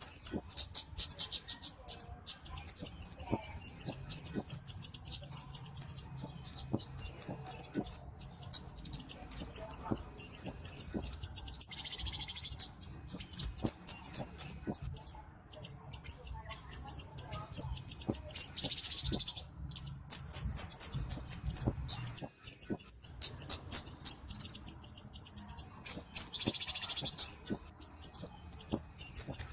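Flowerpecker (cabe-cabean, the 'kemade' type) song: rapid runs of thin, high-pitched chips, repeated in bouts of a few seconds with short pauses. A few notes in between are buzzier and harsher.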